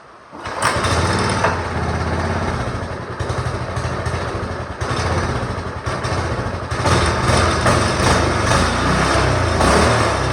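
Small go-kart engine starting about half a second in and then running, its loudness rising and falling a little as it runs.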